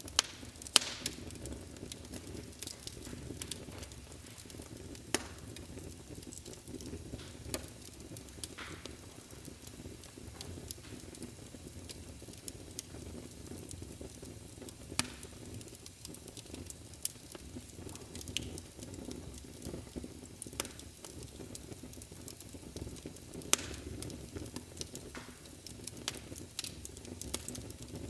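Wood fire burning in a fireplace: a steady low rush of flames, with sharp crackles and pops scattered irregularly throughout, a few of them much louder than the rest.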